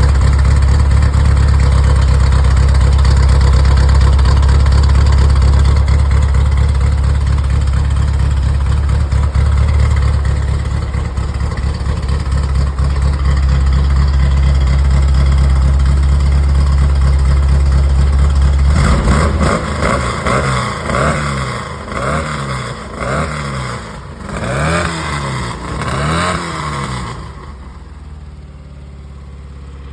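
Car engine through a custom exhaust and headers, running with a steady, loud, deep drone. Then, about two-thirds of the way in, it is revved in about six short blips that each rise and fall in pitch, and near the end it drops back to a much quieter idle.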